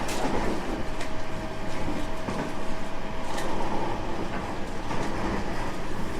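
Inside a 225 series 5000 subseries electric multiple unit running on the line, with a steady rumble of wheels on rail. A faint steady whine holds for the first few seconds, and a sharp click comes about three and a half seconds in.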